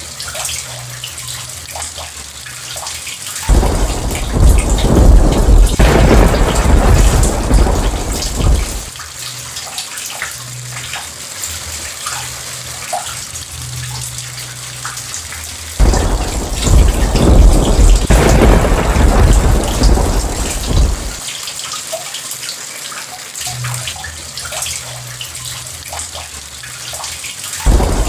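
Steady heavy rain with rolling thunder. Two peals start suddenly, a few seconds in and again about halfway, each rumbling for about five seconds before dying away, and a third begins right at the end.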